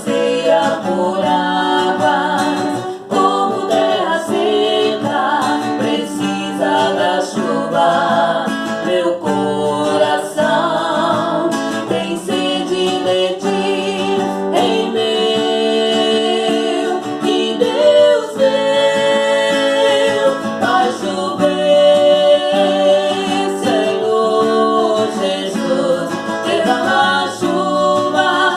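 Gospel praise song sung by a man and a woman, with guitar accompaniment.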